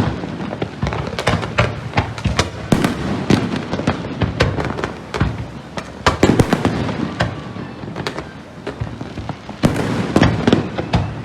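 Fireworks display: a dense, irregular string of bangs and crackles with heavier booms bunched together every few seconds.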